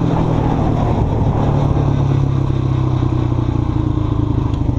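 ATV engine running at full throttle under load up a hill, holding high revs at close to 48 mph. Its pitch drops slightly right at the start, then holds steady.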